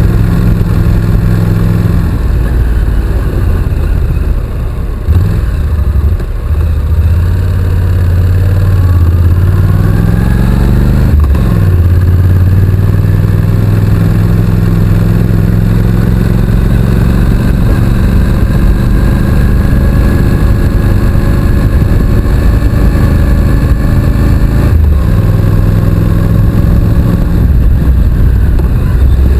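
Honda NC750X's parallel-twin engine running on the move: the pitch sags, then climbs as it accelerates, breaks sharply at a gear change about eleven seconds in, and rises slowly again to a steady pull before briefly dropping near the end.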